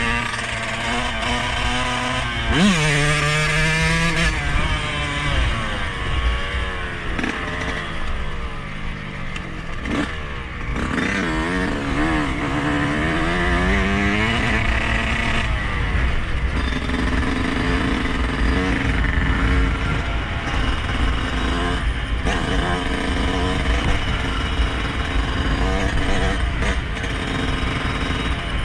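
A 2021 Yamaha YZ125's single-cylinder two-stroke engine running while ridden, revs rising and falling repeatedly. There is a quick rev rise a few seconds in and a longer climb in pitch near the middle, then steadier running.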